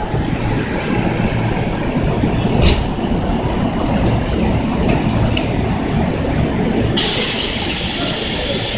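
Kintetsu limited express train sets separating after uncoupling: a steady rumble of railcar and wheel noise with a few sharp clicks from the running gear, and a brighter hiss coming in about seven seconds in.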